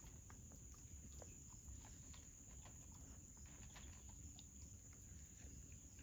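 Near silence: a faint background with a steady high-pitched tone, a low rumble and scattered faint clicks.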